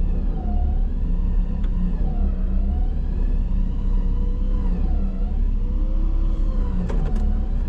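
Vehicle engine running under a heavy low rumble, its pitch rising and falling gently as the revs change, with a few clicks near the end.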